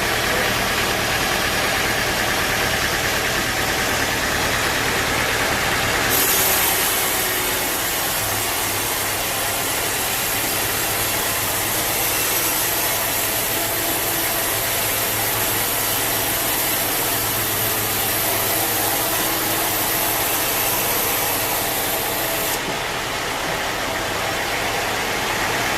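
Sawmill machinery running steadily with an engine-like drone. A brighter high hiss joins about six seconds in and drops away near the end, as when a saw blade goes into a log and comes out again.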